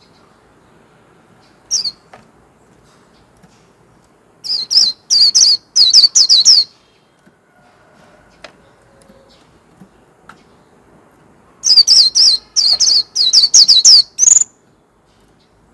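White-eye singing: a single high chirp, then two bursts of quick, high notes that each slide downward, the second burst ending on a short rising note.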